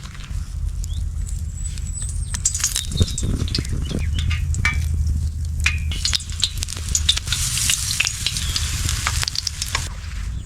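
Cooking sounds from a pan over a campfire: sizzling, with many sharp clicks and scrapes of a utensil. The sizzle grows brighter about halfway through.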